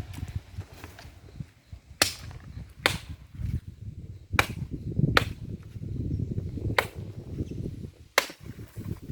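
Wood being chopped for firewood: six sharp blows, unevenly spaced a second or so apart, over a low rumbling noise.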